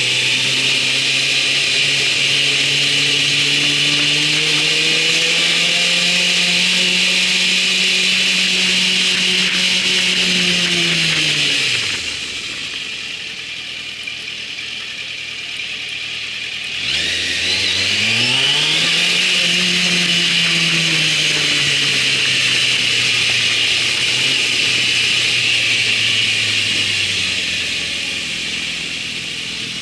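Motorcycle engine running under way, with wind rushing over the microphone. The engine pitch climbs steadily, drops away about twelve seconds in as the bike slows, stays lower for about five seconds, then rises again as it accelerates and eases off near the end.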